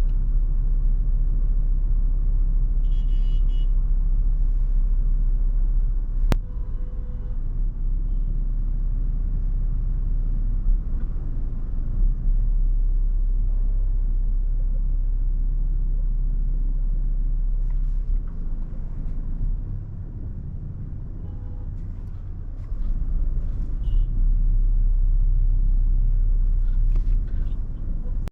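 Steady low rumble of a Toyota FJ Cruiser driving in heavy wind, road and wind noise together. It eases for a couple of seconds about two-thirds of the way through. A single sharp click sounds about six seconds in.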